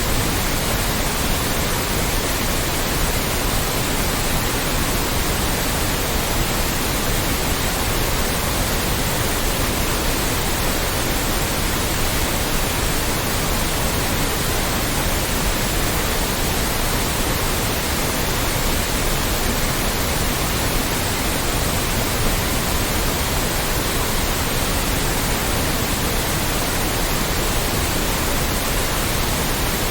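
Loud, steady white noise: an even, unchanging hiss across all pitches.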